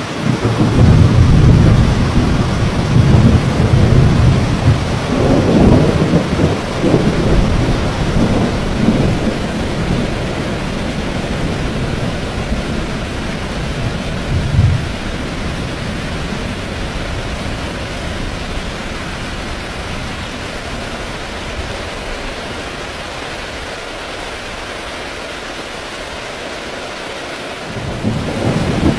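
Heavy rain pouring steadily with rolling thunder. The thunder rumbles loudly through the first several seconds, fades to a short low clap about halfway, then starts rumbling again near the end.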